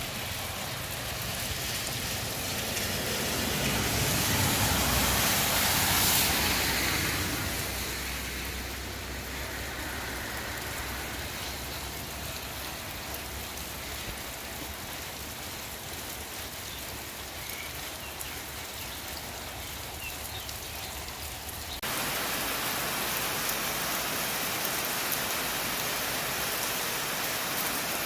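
Steady rain falling, an even rushing hiss. A louder swell with a low rumble builds and fades between about three and eight seconds in. About 22 seconds in, the sound changes abruptly to a brighter, steadier rain hiss.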